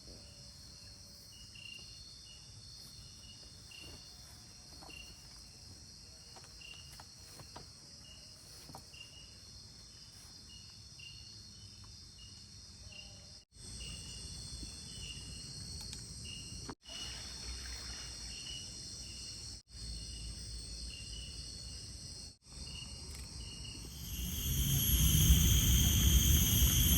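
Crickets chirping in a steady pulsing trill over a faint hiss, cut off briefly several times. Near the end a much louder, steady rush of water sets in and takes over.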